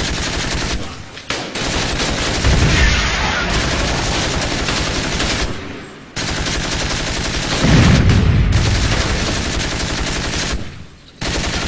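Sustained automatic gunfire in long rapid bursts, with short breaks about a second, six seconds and eleven seconds in. Two heavier, deeper blasts stand out, about two and a half seconds and eight seconds in.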